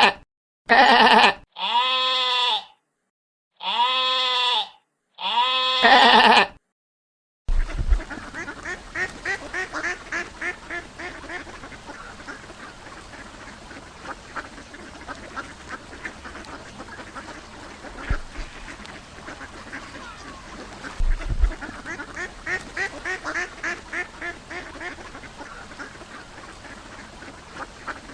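Four long, wavering bleats of goats or sheep, then, after a short gap, a flock of ducks quacking continuously to the end.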